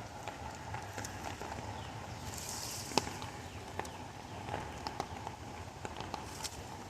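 Steady rain with scattered drops tapping close by, one sharper tap about three seconds in.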